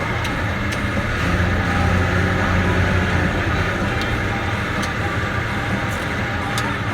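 Caterpillar D6K bulldozer's diesel engine running steadily, with several sharp clicks over it.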